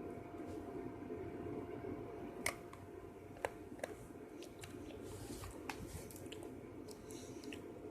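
A person chewing dog food, with soft wet mouth sounds and a few sharp clicks, the loudest about two and a half seconds in, over a steady low hum.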